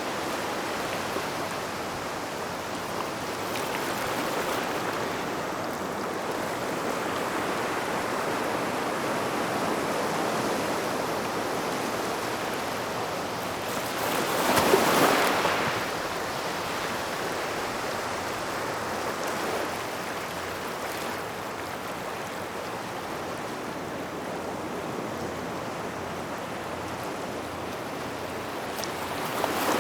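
Waves washing onto a gravel shore near rocks: a steady wash, with one bigger wave breaking about halfway through and another building right at the end.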